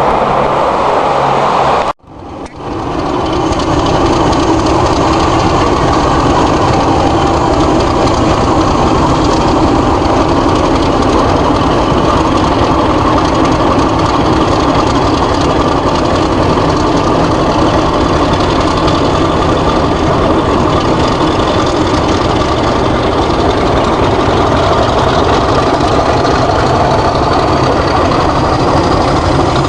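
A Class 50 diesel locomotive's English Electric 16-cylinder engine running steadily and loudly, following a short break about two seconds in. A faint whine rises slowly in pitch near the end.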